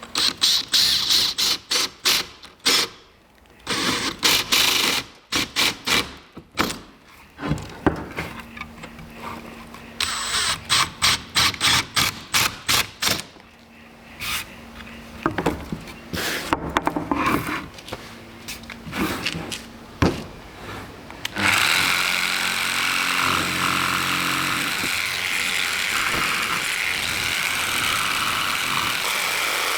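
Power tools worked in short on-off bursts. About two-thirds of the way in, one starts running steadily.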